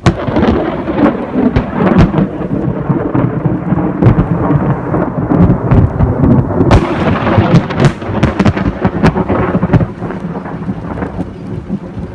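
Thunder from a close lightning strike: a sudden sharp crack, then long rolling, crackling thunder, with another sharp crack about seven seconds in, over the steady sound of rain.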